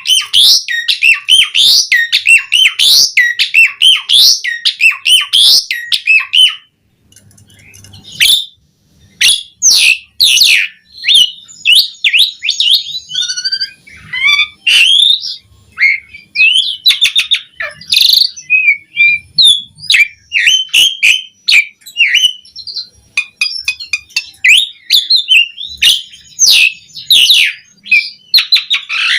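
Pied starling (jalak suren) singing loudly and incessantly. The first six seconds are fast repeated rising phrases, about two a second. After a brief pause comes a varied run of whistles, chatter and sharp clicking notes.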